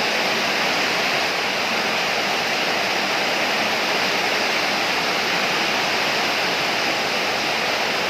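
Storm of heavy rain and strong wind: a loud, steady rush with no breaks.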